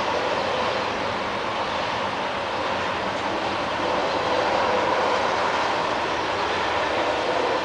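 Canadian National freight train rolling past: a steady noise of steel wheels on rail, with a faint steady whine running through it.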